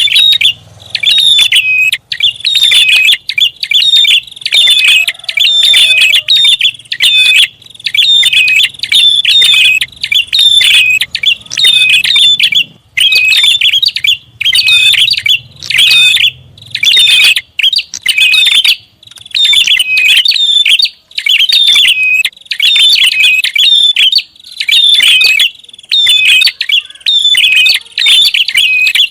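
Prinia (prenjak) calling noisily, loud rapid chirping phrases of about a second each, repeated over and over with short pauses; an agitated call used as a bird-lure sound.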